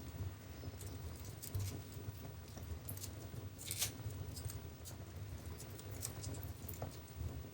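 Wood fire burning in a fireplace: a low steady rumble of flames with scattered sharp crackles and pops, the loudest pop a little under four seconds in.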